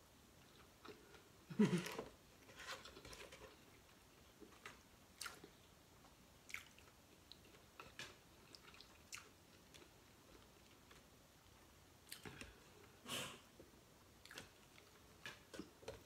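Quiet, wet chewing and lip smacks of a person eating seafood and rice with their fingers, with scattered soft clicks. A brief louder mouth sound comes about one and a half seconds in, and another near the end.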